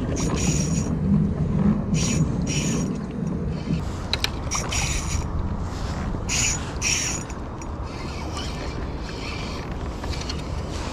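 Small Seahawk Lite Pro 800 spinning reel ratcheting in repeated short bursts as a hooked fish is played on light line.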